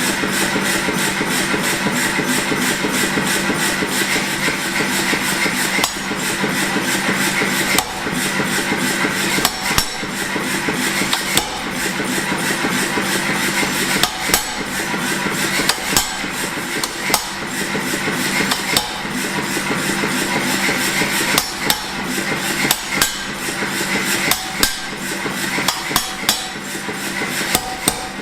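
Rapid, repeated hammer blows on a steel spring ball swage, forming a ball on the end of a steel bar, over a steady machine hum. The blows run fast and even throughout, with louder separate strikes standing out from about a third of the way in.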